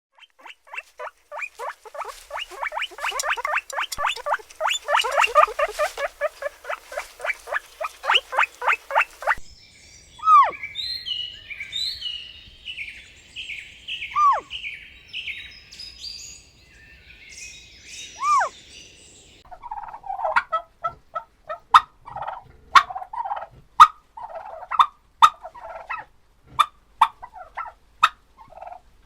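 Farm fowl calling in three separate clips: a fast run of repeated calls, then high chirping broken by three falling whistles, then a rhythmic series of calls with sharp clicks.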